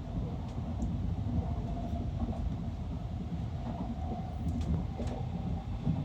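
Sanyo Shinkansen train running: a steady low rumble with a faint steady whine above it and a few light ticks near the end.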